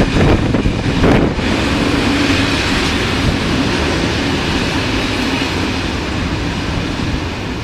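A train passing close by: a steady rumble and rush of wheels on the rails, with a knock about a second in, easing off slightly toward the end.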